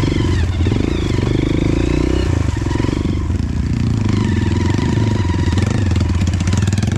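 Dirt bike engine running under way on an off-road trail, its pitch rising and falling with the throttle.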